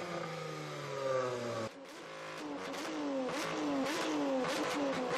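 A supercar engine falling in pitch as it comes off the throttle. It cuts off suddenly under two seconds in, and another supercar engine follows, revving in quick repeated blips with exhaust crackle.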